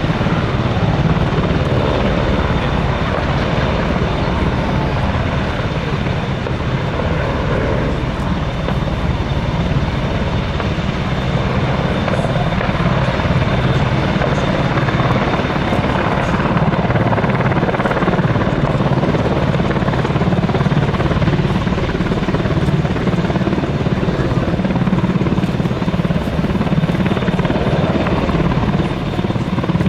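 Military helicopter flying, its rotor and turbine engines making a loud, steady noise with a thin high whine over it.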